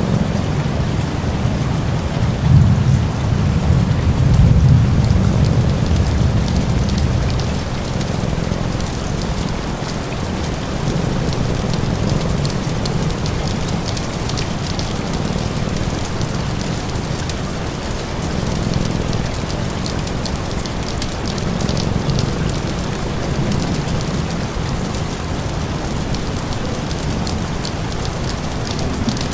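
Steady rain falling, with a low rumble that swells a few seconds in and then eases back.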